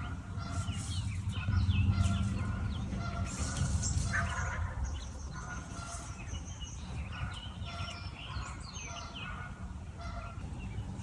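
Outdoor bird chorus: many songbirds chirping, with the repeated calls of a larger bird coming through at intervals and one louder call about four seconds in, over a low wind rumble.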